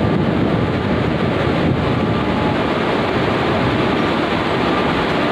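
Indian Railways WAP-7 electric locomotive hauling an express train along the platform line: a steady running noise of wheels on rails, with a faint steady whine.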